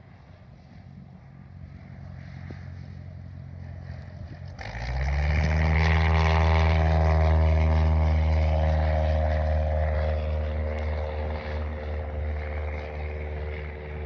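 Light propeller aircraft engine droning at close range. It is a steady hum at first, then grows suddenly much louder about four and a half seconds in, holds a strong even tone, and eases off slightly near the end.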